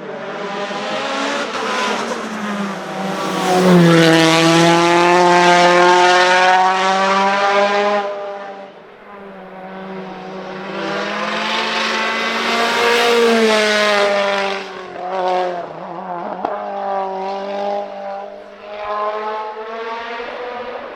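Mitsubishi Lancer Evolution IX race car's 2.3-litre turbocharged 4G63 stroker engine at high revs, its pitch rising and falling through the gears. It is loudest about four seconds in, fades around nine seconds, and swells again to a second peak about thirteen seconds in.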